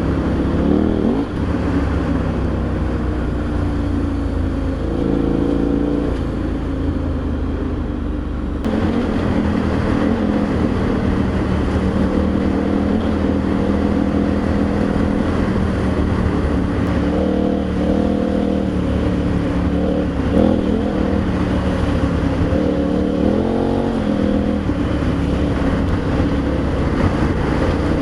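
KTM adventure motorcycle's twin-cylinder engine running while riding, its pitch rising and falling with throttle changes several times, over a steady rush of noise.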